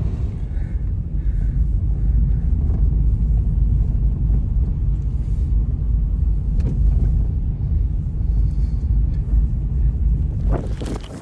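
Strong blizzard wind buffeting the microphone: a loud, steady, deep rumble. A few brief rustles come near the end.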